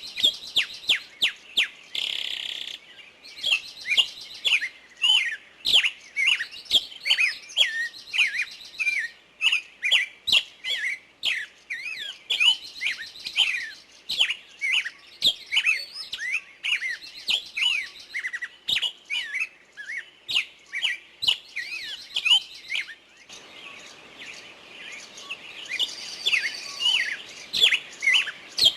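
Songbirds chirping and singing, a dense run of short whistled notes several per second, with high rapid trills now and then and a brief harsh call about two seconds in.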